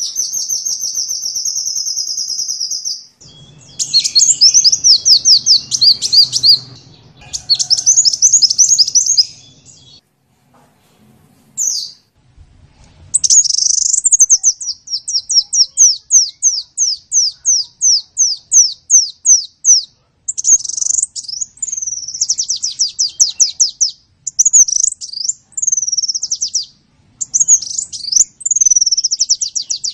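Sunbird song: high, fast trills and sweeping notes. A buzzy trill opens, then comes a pause about ten seconds in. After that there is a long run of quick repeated down-slurred notes, several a second, and the song ends in looping phrases.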